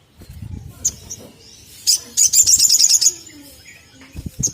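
Sunbird calling: a short high chirp, then a fast, high rattling trill about two seconds in that ends in a brief held note, and another short chirp near the end.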